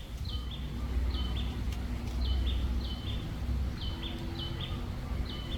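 A small bird calling over and over: a short high chirp that steps down in pitch, repeated roughly once a second, over a steady low rumble.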